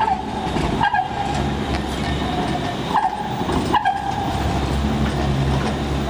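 Buses and a tram running at a bus and tram interchange: a steady low engine rumble with short metallic squeals about a second in and twice more around three to four seconds in.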